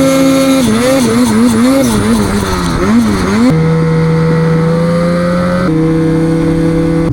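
Snowmobile engine revving hard, its pitch rising and falling quickly over and over as the sled is worked to free it from deep snow. It then jumps abruptly to steady high revs.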